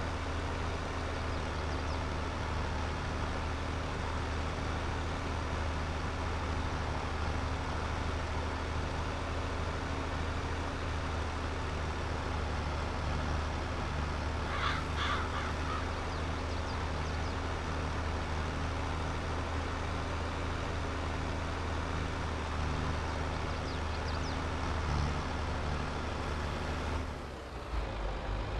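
Tractor engine running steadily with an even, deep drone. A bird calls briefly about halfway through, and the engine note shifts near the end.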